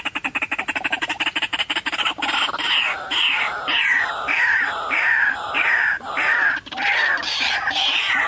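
White-breasted waterhen (ruak-ruak) calls: a rapid stuttering run of notes for about two seconds, then repeated loud falling calls at about two a second.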